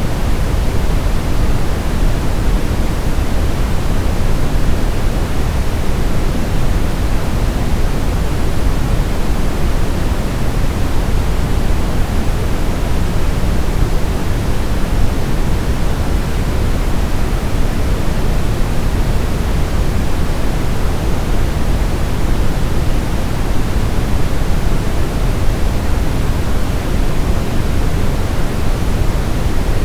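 Continuous synthetic sleep-aid noise, an even, unchanging hiss that is heavier in the low end, like pink noise, with no pitch or rhythm.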